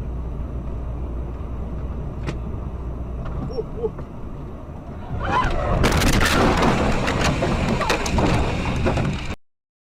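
Steady low road and engine rumble heard inside a car on a dash camera. About five seconds in, a sudden louder stretch of clattering noise begins and then cuts off abruptly near the end.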